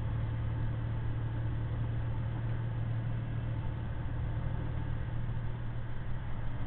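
Tractor-trailer's diesel engine running steadily under load, heard inside the cab as an even low drone with road noise.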